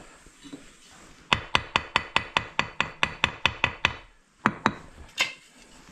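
Brick being tapped down into its mortar bed to level it: a quick, even run of about a dozen sharp knocks, about five a second, then two more single knocks after a short pause.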